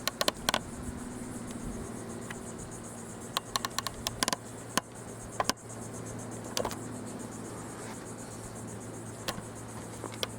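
Insects trilling steadily in a high register with a fast, even pulse, over a low steady hum. Scattered sharp clicks come through, several bunched together about a third of the way through.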